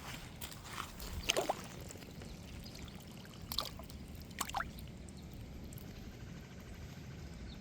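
Wind rumbling on the microphone, with a few short water splashes and drips scattered through the first half.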